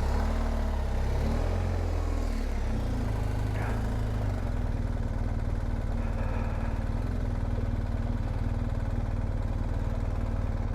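BMW R1250 GSA's boxer-twin engine running, the revs rising and falling for the first four seconds or so, then settling to a steady low-rev run.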